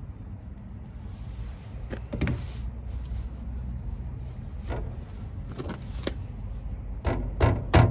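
Knocks and clicks from hand work on a truck cab's door trim, a few spaced out at first. Near the end they turn into a quick run of loud knocks, about three a second.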